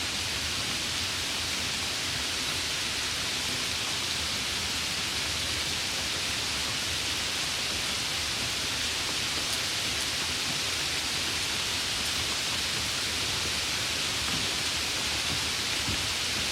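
Steady rain falling: an even, high hiss with no single drops standing out.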